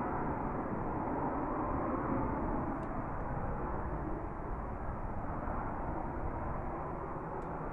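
Jet aircraft engine noise: a steady rushing sound that eases slightly partway through.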